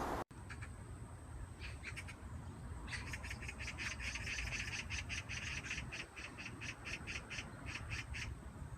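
Magpie chattering: a few short harsh calls, then from about three seconds in a rapid rattling run of notes, about five a second, lasting some five seconds.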